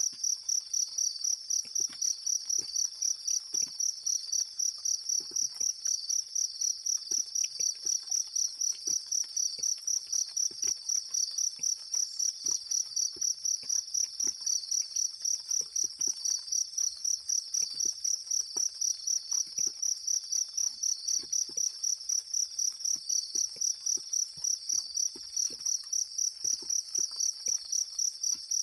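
An insect, cricket-like, chirping in a steady, high-pitched pulsing rhythm of about three chirps a second. Faint scattered ticks sound underneath.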